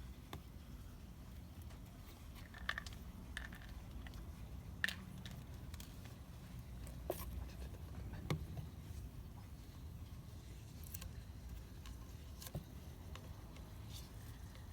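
A handful of light clicks and knocks, spread out and irregular, over a low steady rumble: small hard parts being handled.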